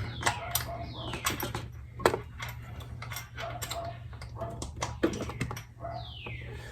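Small metal tools clicking and scraping irregularly against the cam buckets in a motorcycle cylinder head while a valve shim is worked loose. A few scrapes slide down in pitch, over a steady low hum.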